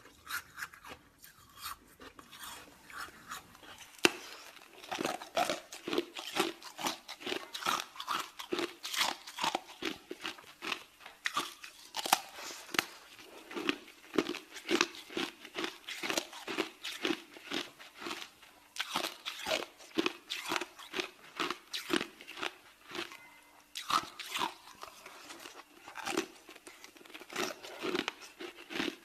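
Ice being crunched and chewed close to the mouth: a quick, irregular run of hard crunching strokes, faint at first and louder from about four seconds in.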